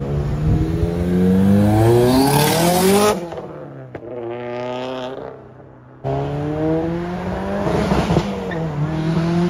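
Tuned performance car engines accelerating hard, their pitch climbing. The sound cuts abruptly about three seconds in to a quieter engine revving, then about six seconds in to another loud acceleration.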